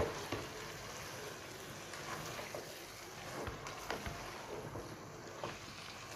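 Spinach and lotus stem sautéing in a pot, a steady quiet sizzle, with a few light scrapes of the spatula as they are stirred.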